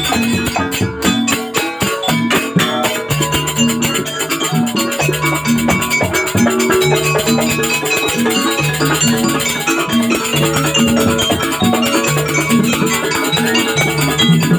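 Live jaranan accompaniment music: a gamelan-style ensemble of struck tuned metal percussion and drums playing a dense, steady rhythmic pattern over repeating low notes.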